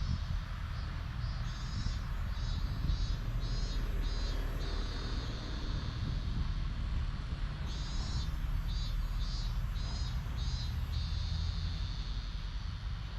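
Outdoor ambience at a shrine: a steady low rumble with an insect singing in short, high pulses, about two a second, in two bouts.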